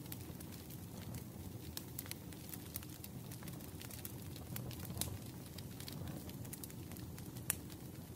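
Wood fire crackling in a fireplace: a steady low rush of flames with irregular small pops and snaps, a sharper pop about five seconds in and another about seven and a half seconds in.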